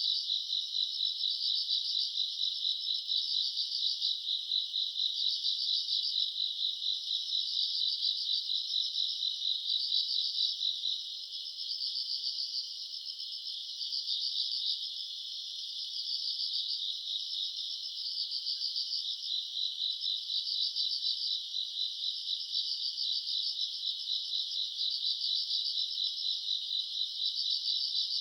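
A chorus of grass insects chirping in fast, pulsing trills that swell and fade about once a second, a little softer about halfway through.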